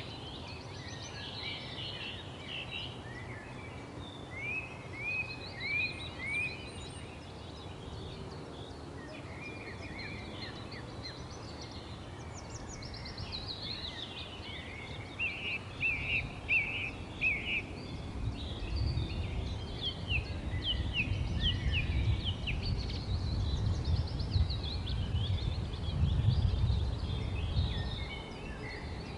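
Several wild birds chirping and singing over one another in quick series of short, falling notes. About halfway through, a low rumble joins them.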